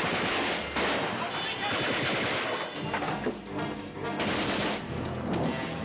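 Bursts of gunfire, machine-gun fire among them, under a music score.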